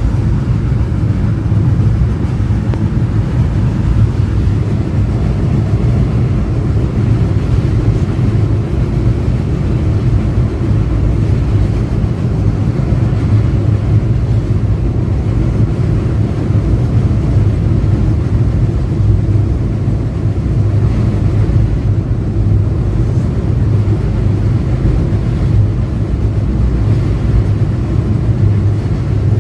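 Passenger train running, a steady low rumble that holds unchanged throughout.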